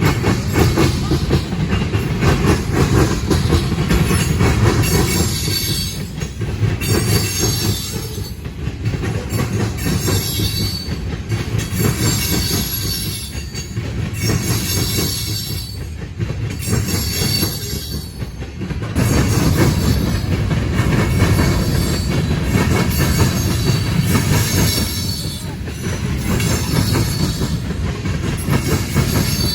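Freight cars of a manifest train rolling past, wheels clattering over the rail and the crossing diamonds with a steady low rumble. A high-pitched wheel screech comes and goes every couple of seconds through the middle stretch.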